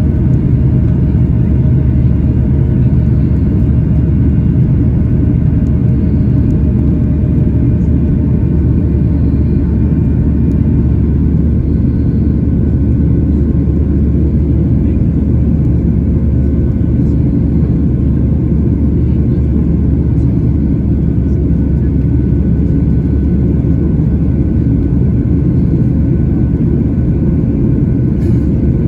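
Boeing 737-800's CFM56 engines and rushing air heard inside the passenger cabin during the climb: a loud, steady low rumble with a faint steady hum above it.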